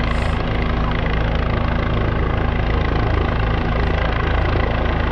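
Helicopter hovering close by during a rescue demonstration: a loud, steady rotor and turbine noise with a constant engine whine running through it.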